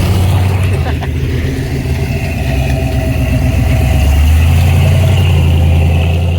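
A car engine and exhaust running with a deep, steady rumble, swelling louder about four seconds in as the vehicle pulls closer or gets more throttle.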